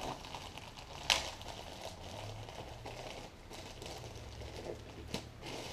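Quiet handling noises over a faint low room hum: one brief sharp rustle about a second in and a small click near the end.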